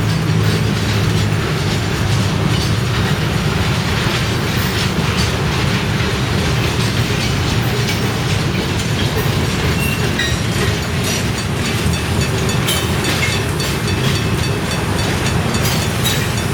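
Freight train of loaded mineral hopper cars rolling past, wheels clacking over the rail joints over a steady low rumble, with a brief faint wheel squeal about ten seconds in.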